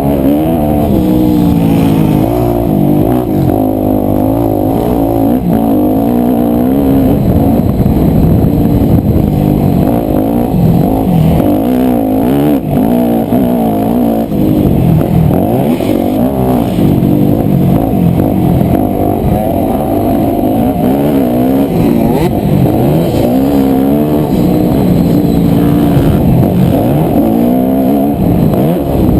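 250cc four-stroke single-cylinder motocross bike engine being ridden hard, the revs climbing and dropping again and again with throttle and gear changes.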